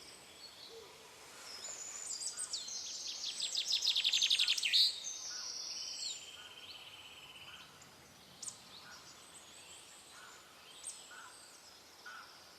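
Several songbirds singing and chirping together, with a loud, rapid trill building a couple of seconds in and stopping at about five seconds, followed by a steadier buzzy trill and then scattered fainter calls.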